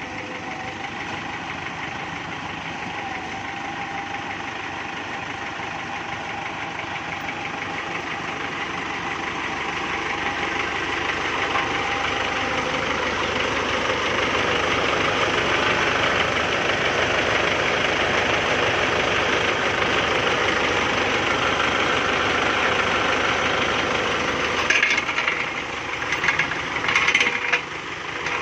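Kubota MU5702 tractor's diesel engine running steadily, growing louder over the first half and then holding. Several sharp knocks come near the end.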